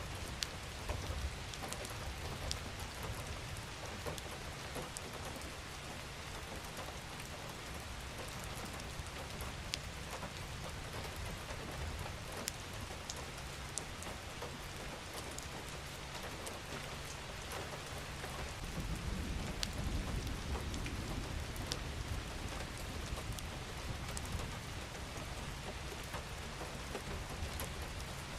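Steady rain falling: an even hiss dotted with sharp ticks of single drops. A low rumble swells about two-thirds of the way through.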